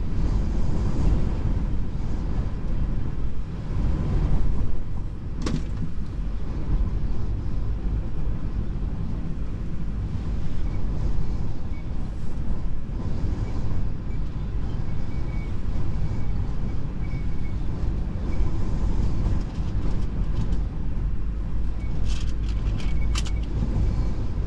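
Steady low rumble of a semi truck's running engine mixed with strong wind buffeting. A sharp click sounds about five seconds in, and a few more clicks come near the end.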